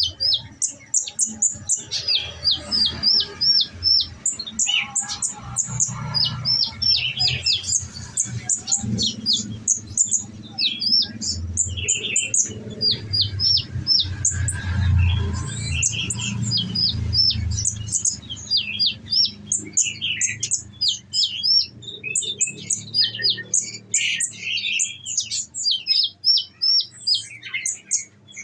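Olive-backed sunbird (konin) singing: quick strings of short, high, sharp notes, repeated over and over, the rapid 'tembakan' (shooting) bursts prized in this bird. A low rumble runs underneath for the first two-thirds.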